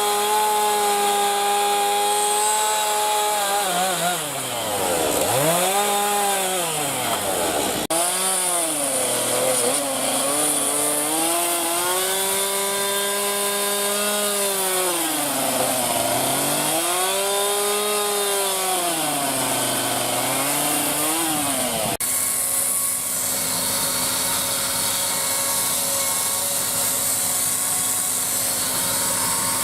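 Chainsaw cutting into wood, the engine pitch dropping and climbing again and again as the saw bites and frees up. About two-thirds of the way through it changes abruptly to a steadier, more even engine note.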